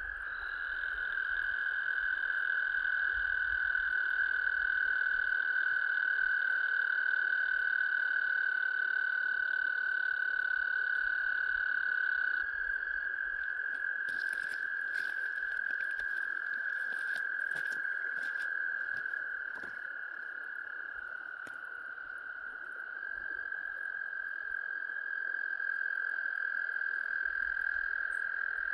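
A chorus of frogs trilling: one long, steady, high-pitched trill carried by several overlapping voices at slightly different pitches. A few light taps or clicks come about halfway through.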